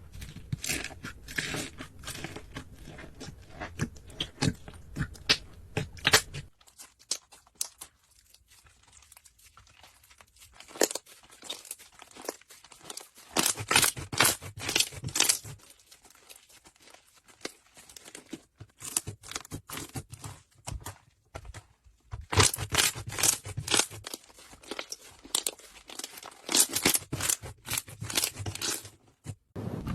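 Slime being squeezed and worked by hand, giving irregular runs of crackling, popping clicks that come in bursts with quieter pauses between.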